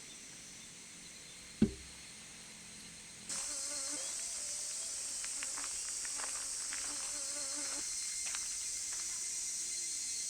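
A chorus of cicadas: a steady, high shrill haze that comes in suddenly about three seconds in. Before it there is one sharp knock, and a faint wavering low tone runs under the chorus for a few seconds.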